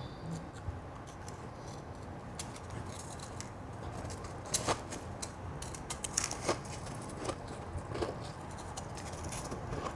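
Close-miked chewing of crunchy ice in the mouth: irregular sharp crunches and cracks, thickest in the middle.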